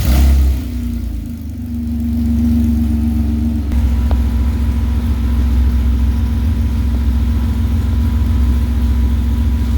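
Nissan 370Z's 3.7-litre V6, straight-piped with open headers, running at a steady speed after a loud burst at the start; a little under four seconds in the note shifts and grows louder, then holds steady.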